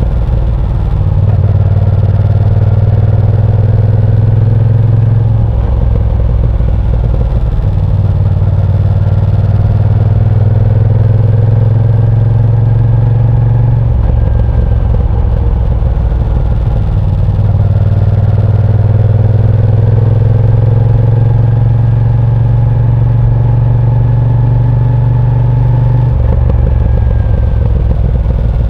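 Moto Guzzi V7 Sport's air-cooled transverse V-twin running on the move, its engine note stepping down for a few seconds and back up several times, about 5, 14 and 26 seconds in, as the throttle is rolled off and on through corners.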